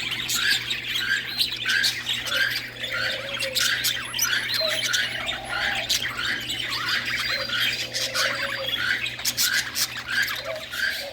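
A flock of English budgerigars (budgies) chattering and squawking, over the calls of many other small cage birds. A short call repeats about twice a second.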